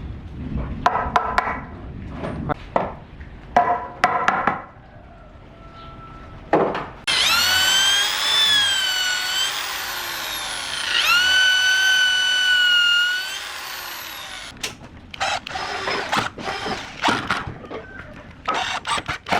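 An electric drill runs in two bursts of several seconds each, its motor whine sagging in pitch as it bites and then holding steady under load. Before and after the bursts come knocks and clatter of wood and tools being handled; the sharpest knocks are the loudest sounds.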